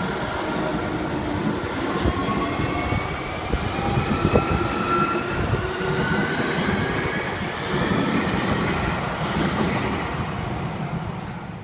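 A train passing close by: a dense rumble of wheels on the rails under several whines that climb steadily in pitch, the sound of a train's traction motors as it picks up speed. It fades near the end.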